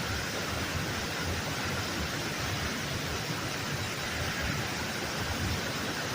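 Waterfall's water rushing and splashing in a steady, even roar with no breaks.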